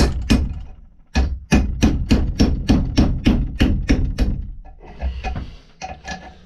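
Hammer blows driving the old, rusted-in hickory handle wood out of the eye of an old axe head: a couple of strikes at the start, then a steady run of about a dozen sharp blows at roughly three a second, easing to a few lighter knocks near the end.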